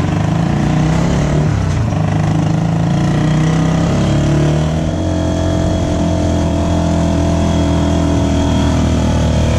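Motorcycle engine of a tricycle (motorcycle with sidecar) running steadily under way, its note shifting a couple of times as the speed changes.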